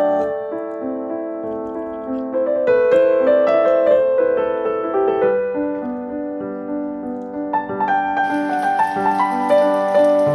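Soft background piano music playing slow, sustained notes. About eight seconds in, a steady hiss of rain comes in under the piano.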